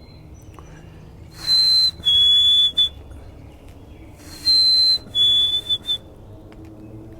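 Black-capped chickadee singing its clear two-note fee-bee whistle twice, each time a short higher note dropping to a longer, slightly lower one.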